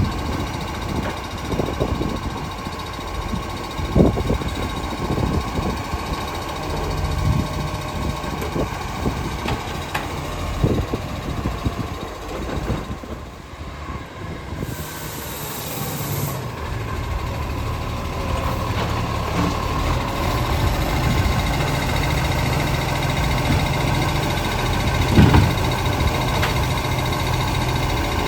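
Garbage truck engine running, with scattered knocks and clunks and a brief hiss about halfway through.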